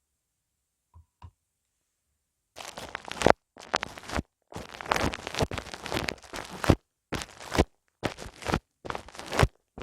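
Close-up ASMR ear massage: rubbing and scratching strokes on a microphone's ear in repeated bursts with short pauses. They start about two and a half seconds in, after near silence and two faint clicks.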